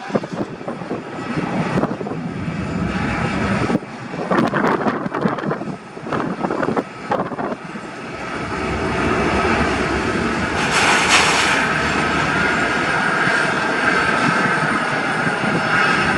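Airliner engines running and growing louder through the second half, with a steady whine and a brief rush of hiss about eleven seconds in. Wind buffets the microphone in the first half.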